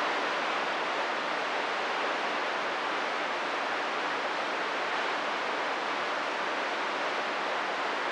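Steady static hiss from a CB radio receiver with nobody transmitting, even and unchanging throughout.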